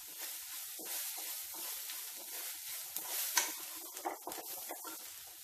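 Crushed shallots, garlic and curry leaves with chilli powder sizzling in coconut oil in a nonstick pan. They are stirred with a wooden spatula, with a few short scrapes and taps against the pan.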